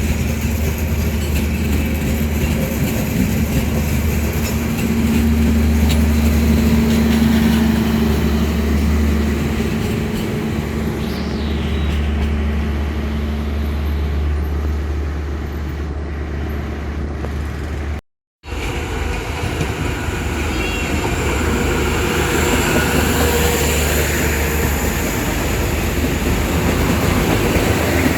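Diesel train running at the station: a steady low engine drone over rail and wheel noise. It cuts off abruptly about two-thirds of the way through, then another train's running noise follows.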